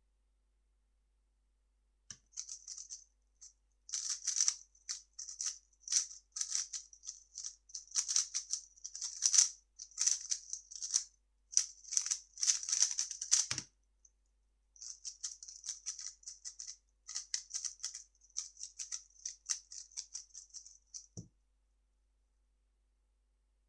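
A 3x3 speed cube turned rapidly by hand: a fast, high rattle of plastic layers clicking. It comes in two stretches, and each ends with a thud as the cube is put down, once near the middle and once near the end.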